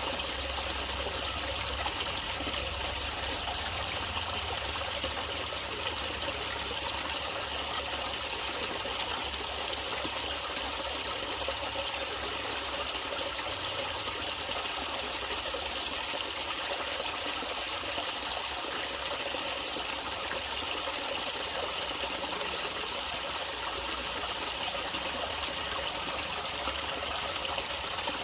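Natural running water trickling steadily, with a low rumble underneath.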